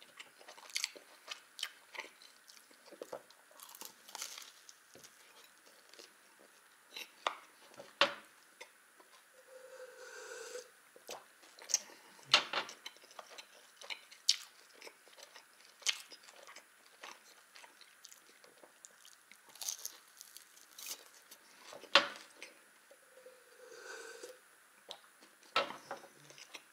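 Close-miked mouth sounds of a person eating a baked bun: chewing with many wet smacks and clicks, a few of them much louder than the rest.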